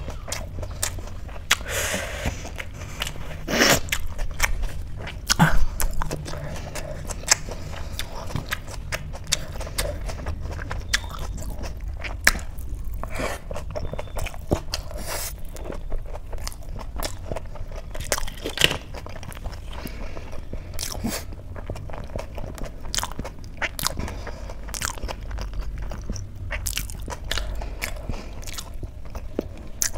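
Close-up chewing of a mouthful of rice and mashed potato eaten by hand: wet mouth sounds with many short clicks and smacks, and occasional crunchy bites.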